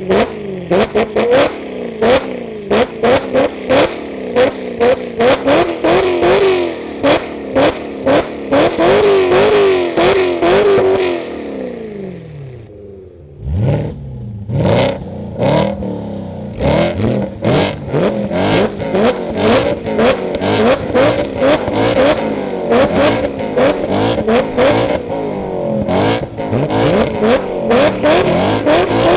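A V8 sports coupe with an aftermarket exhaust, revved hard again and again, its pitch climbing and dropping, with sharp cracks throughout. About twelve seconds in the revs fall away to a low ebb, then climb quickly again.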